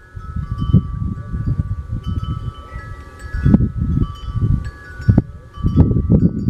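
Metal wind chimes ringing, several tones at different pitches overlapping and ringing on, over an uneven low rumbling noise with a few sharp knocks.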